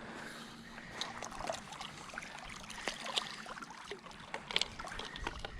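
Shallow lake water sloshing and dribbling with small splashes as a channel catfish is held in it to be released.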